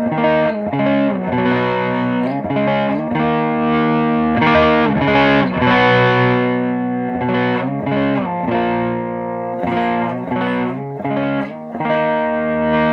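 Electric guitar played through an Audiostorm Quad Screamer overdrive pedal in germanium clipping mode with its dirty boost on: a series of driven chords, changing about once a second.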